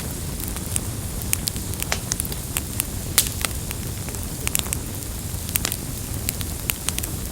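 Campfire crackling and popping: many sharp, irregular pops over a steady low rumble, with the loudest pop about three seconds in.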